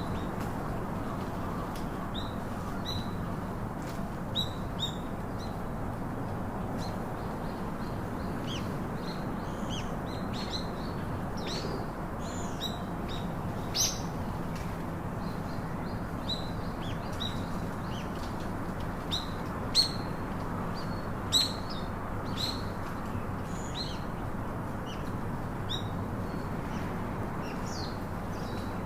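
Several songbirds chirping and twittering, many short high calls scattered throughout, with a few louder chirps, over a steady low background hum.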